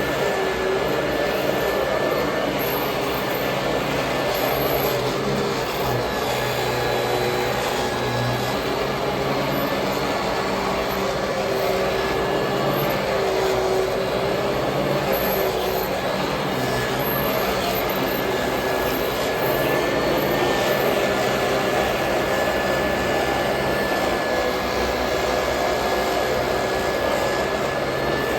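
Royal Model 2008 upright vacuum cleaner running steadily, its motor giving a continuous whine with a slightly wavering lower tone.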